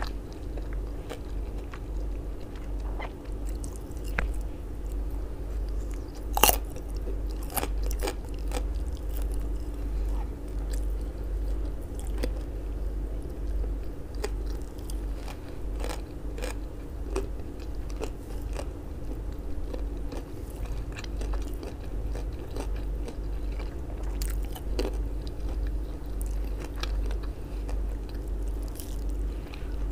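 Close-miked chewing and biting of grilled sausage and raw radish: irregular crisp, wet mouth clicks and crunches, with one sharp crunch about six and a half seconds in. A steady low electrical hum runs underneath.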